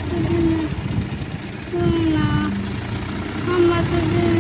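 Diesel tractor engine running steadily, with short voice-like calls over it several times.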